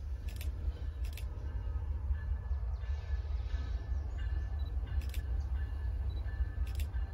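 Distant CN freight train's diesel locomotives giving a low, steady rumble, with a few faint clicks.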